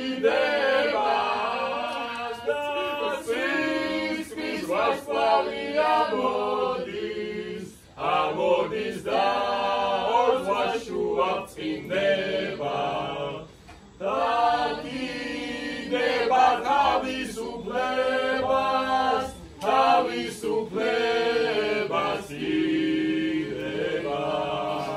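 Voices singing unaccompanied, a cappella, in long held phrases, with short breaks about 8 and 14 seconds in.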